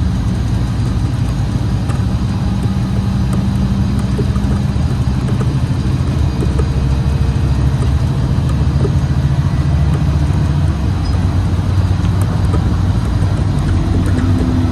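Scania Citywide LE bus's compressed-natural-gas engine running steadily, its low hum stepping to a different pitch a few times.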